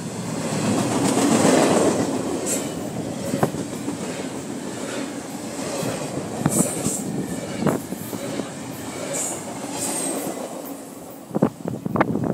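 Double-stack intermodal freight cars rolling past close by: steady wheel-on-rail noise with clicks as the wheels pass over rail joints, loudest in the first couple of seconds. A few sharp knocks come near the end.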